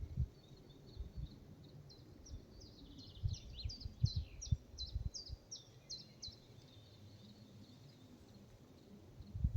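A songbird singing one phrase of about a dozen quick, high, repeated notes, over a faint low rumble that comes and goes.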